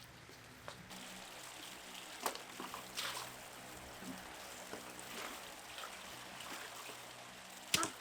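Water trickling and running steadily, with a few brief sharp sounds over it. The loudest of these comes near the end.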